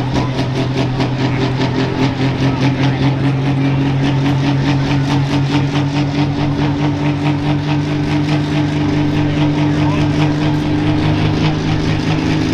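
Turbocharged pro stock pulling tractor's engine idling at a steady pitch, with an even pulsing lope of about four beats a second.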